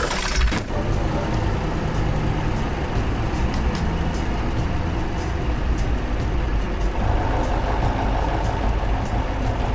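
Heavy vehicle engine running steadily, as a sound effect, with a short burst of noise at the very start.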